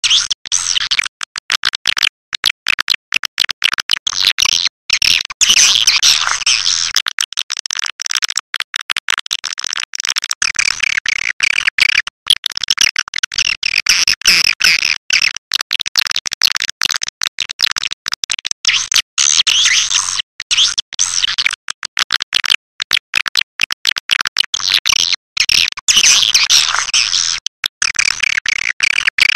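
Swiftlets twittering in a dense chorus of high, rapid chirps, broken by many brief dropouts. This is a swiftlet lure-call recording of the kind played to draw swiftlets to a nest house.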